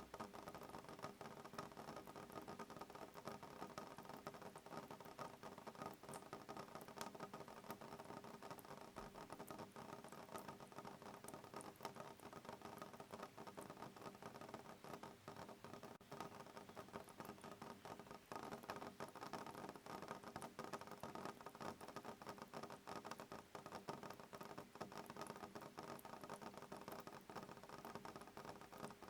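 Soft rain pattering on a window pane: a faint, steady, dense spray of small drop ticks.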